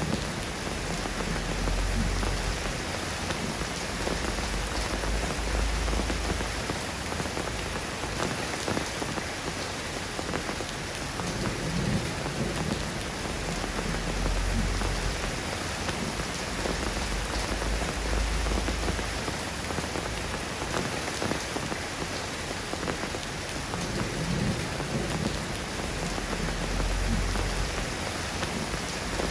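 Steady rain falling, an even hiss of drops, with low rumbles swelling up every few seconds underneath.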